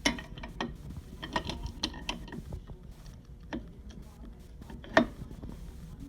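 Hand tools working the rear axle nuts of an ATV loose: light metallic clicks and clinks, with one sharper metal knock about five seconds in.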